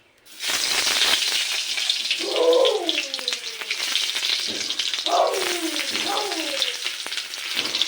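Food for chow mein frying in a hot pan: a steady, loud crackling sizzle that starts suddenly about half a second in.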